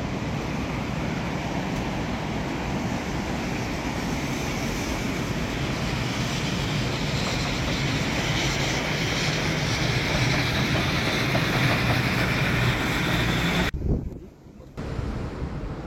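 Train running at speed, a steady rumble with a low hum that builds slightly. The sound drops off abruptly for about a second near the end, then resumes more quietly.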